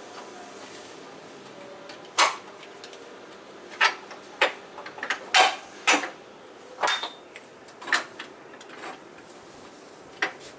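Hand tools and metal engine parts being handled: about a dozen sharp clinks and knocks, irregularly spaced, from about two seconds in. One clink near the middle rings briefly with a high metallic tone.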